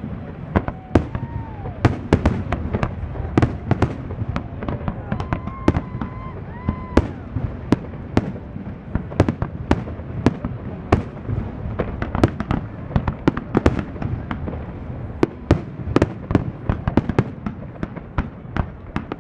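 Fireworks display: a rapid, continuous barrage of bangs and cracks, with a few brief whistles among them in the first seven seconds or so.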